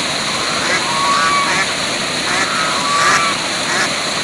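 Waterfall: steady rushing water, with short bird calls repeating over it about five times.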